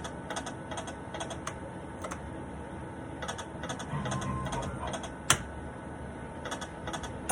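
Irregular clicking and tapping at a slot machine, with one sharper click about five seconds in, over faint steady machine tones.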